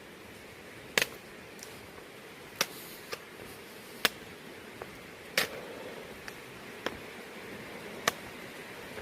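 A series of sharp clicks or taps, about one a second at uneven gaps, over a steady faint hiss.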